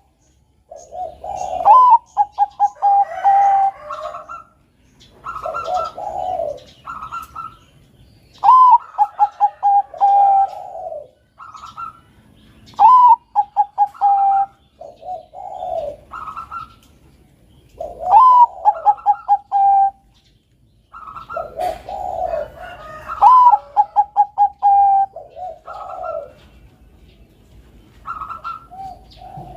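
Zebra dove (perkutut, Bangkok song type) cooing: phrases repeat every four to five seconds, each a rising note followed by a quick run of short even notes, with lower cooing notes in between.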